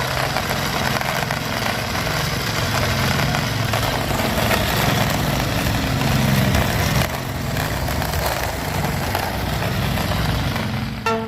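A motor or engine running steadily, with a slight change in its note about two-thirds of the way through; it cuts off at the end.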